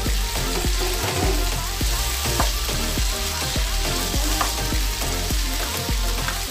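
Chicken, potato and carrot pieces sizzling in hot oil in a nonstick wok, stirred with a spatula that knocks and scrapes against the pan again and again.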